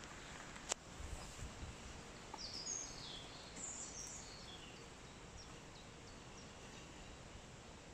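A songbird calling in woodland: a quick string of short, high, falling chirps a couple of seconds in, with a few fainter chirps after. A single sharp click comes just before, over a steady low hiss.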